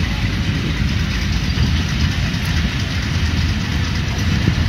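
Pakistan Railways passenger train running, heard from an open coach window: a steady rumble of the coaches and wheels on the track.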